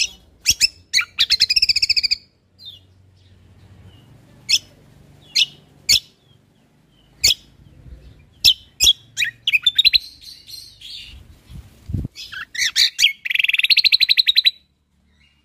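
Cucak kombo songbird singing: sharp separate chirps scattered through, with a fast trill early on and a longer, louder rapid trill near the end.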